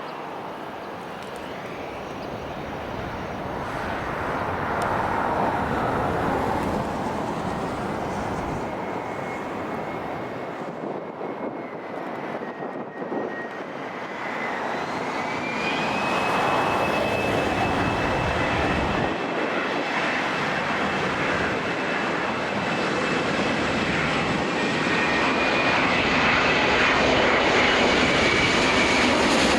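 Jet airliner's engines on approach to land, growing steadily louder as it nears, with a thin whine that climbs a little in pitch about halfway through and then holds.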